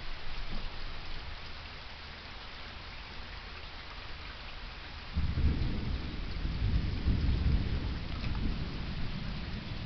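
Steady rain falling, with a low rumble of thunder that starts suddenly about halfway through and carries on to the end.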